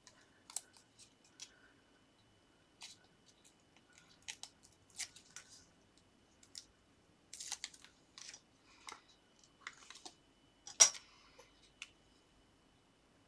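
Scattered small paper-crafting handling noises: card and paper rustling, peeling and tapping in short irregular bursts, with one sharp click about eleven seconds in.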